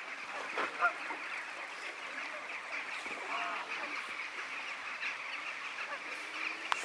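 Geese and ducks calling faintly, a few short calls scattered over a steady background hiss.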